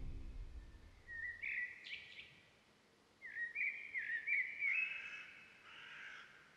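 Birds chirping: a short phrase of quick chirps about a second in, then a longer run of repeated rising-and-falling chirps from about three seconds in that fades near the end. The tail of a music track dies away in the first second.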